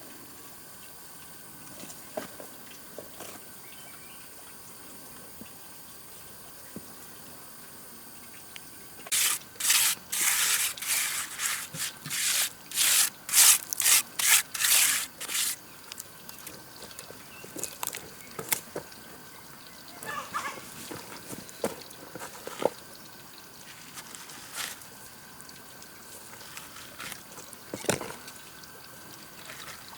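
A run of about a dozen quick rubbing or scraping strokes, roughly two a second, for some six seconds in the middle. A few soft knocks and clicks come before and after it.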